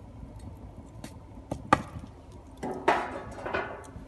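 Metal fire hook knocking and scraping against burning logs in a fireplace firebox as the logs are spread out: a few sharp knocks, the loudest just under two seconds in, then a cluster of ringing clanks about three seconds in.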